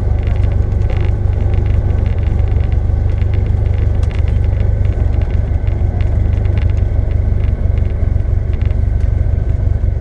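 A vehicle's steady low rumble, with a few faint clicks.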